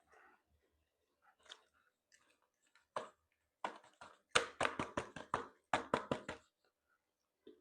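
Close-miked mouth noises of a person chewing seafood: soft scattered wet clicks, then a quick run of loud crisp chewing clicks, about five a second, in the second half.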